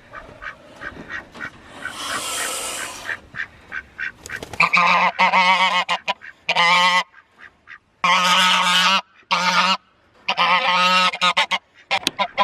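Goats bleating: five loud, wavering calls beginning about four and a half seconds in, after a stretch of soft, regular ticking.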